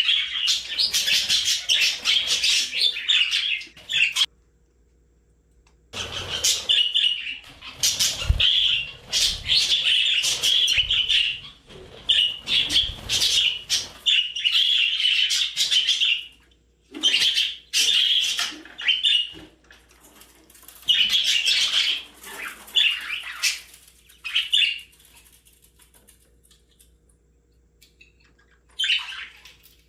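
Budgerigar chattering and warbling in fast bouts of chirps and clicks, with short pauses between bouts and fewer calls near the end. Low rustling and knocks sit under the chatter in the middle stretch.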